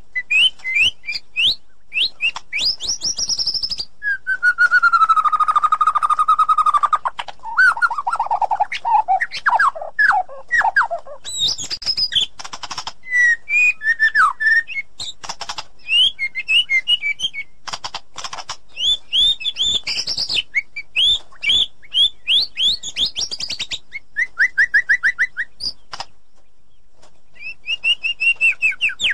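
White-rumped shama (murai batu) singing a long, varied song of clear whistles, sliding notes and fast rapid-fire series of notes, with a short pause near the end.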